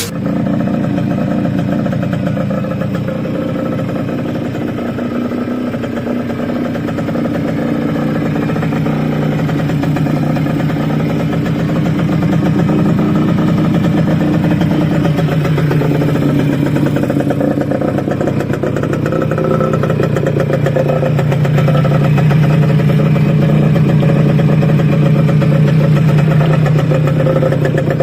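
Suzuki AX100's two-stroke single-cylinder engine, fitted with a Yamaha DT125 carburettor, running, its revs rising around the middle and again toward the end.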